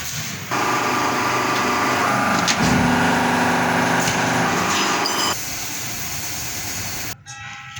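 Manual metal lathe running, its cutting tool working a stainless steel plate: the cut gets louder, with a steady ringing tone, from about half a second in until about five seconds, then the machine runs on more quietly until the sound cuts off suddenly near the end.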